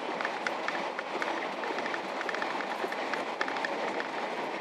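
Diesel railcar running at speed, heard from inside the passenger cabin: a steady rumble of wheels on rail with frequent short ticks and rattles.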